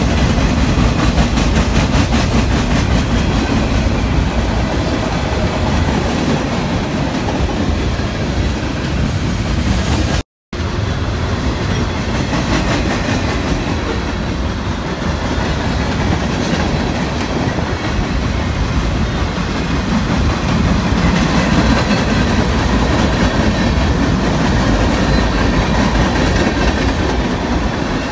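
Freight train cars rolling past close by: a steady rumble with the clacking of steel wheels over the rail. The sound cuts out for a moment about ten seconds in.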